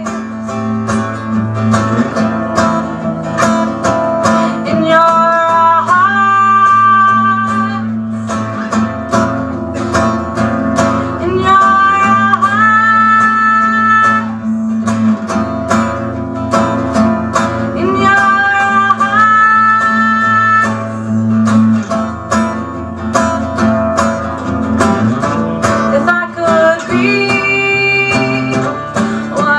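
Live acoustic song: an acoustic guitar strummed in a steady rhythm, with long held melody notes above it that slide up from one pitch to the next.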